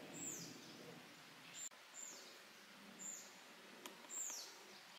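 A bird repeating a short, high call that falls in pitch, about once a second, over faint outdoor background noise.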